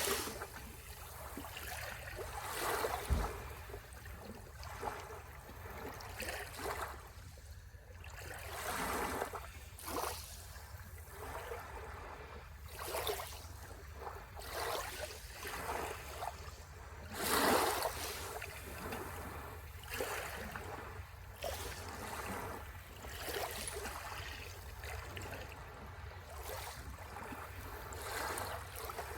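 Sea waves washing and lapping at the shore in irregular swells every second or two, with one louder wash just past halfway.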